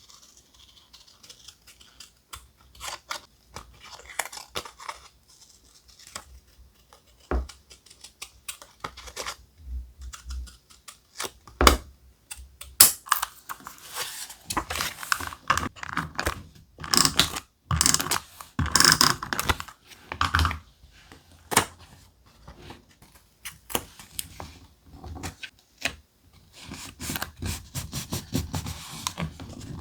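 Thick paper and sticker sheets being handled for collage journaling: scattered rustles, taps and scratches, sparse at first and busier from the middle on.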